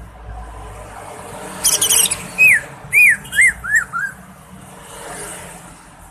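Cucak ijo (green leafbird) singing: a quick high twittering burst about one and a half seconds in, then five loud arching whistled notes, each slightly lower than the one before.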